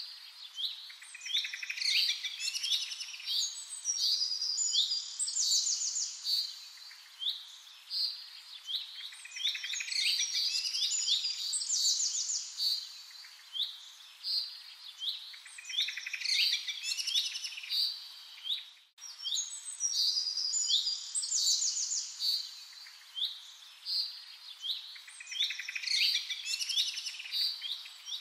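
Birdsong: many short chirps and quick high trills from small birds, in a pattern that repeats about every nine seconds, with a momentary dropout about two-thirds of the way through.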